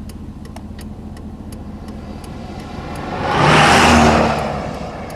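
A motor vehicle passing close by, its tyre and engine noise swelling to a peak about two-thirds of the way through and fading away, over the low steady rumble of a car's engine, with faint regular ticks.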